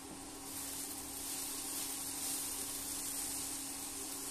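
Mixed vegetables sizzling in a frying pan as they are stirred with a spatula: a steady hiss that grows a little about half a second in, over a steady low hum.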